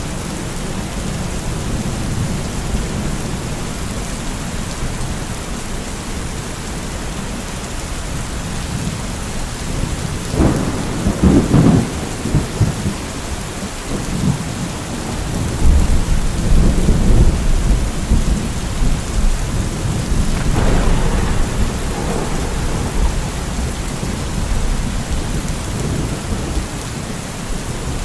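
Steady rain with rolling thunder. The thunder swells into louder low rumbles about ten seconds in and twice more over the following ten seconds.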